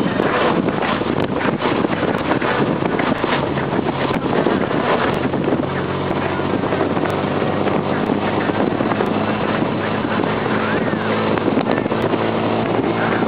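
1952 Jaguar XK120's 3.4-litre twin-cam straight-six running at a steady note as the open two-seater cruises, with wind rushing over the microphone.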